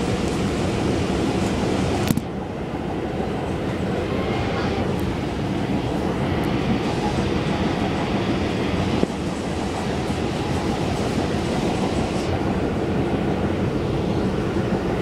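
Running noise inside a Long Island Rail Road C3 bi-level passenger car under way: a steady rumble of wheels on the rails. There is a sharp knock about two seconds in.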